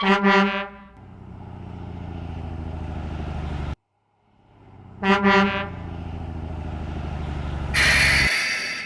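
A truck horn honks briefly, then a truck engine runs with a steady low chug that grows louder and cuts off suddenly. The honk and engine run come again about five seconds in, and a burst of hissing comes near the end.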